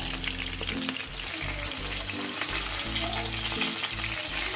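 Mutton-and-potato kababs sizzling in hot oil on a tawa as they fry on one side, a steady crackling hiss, with background music underneath.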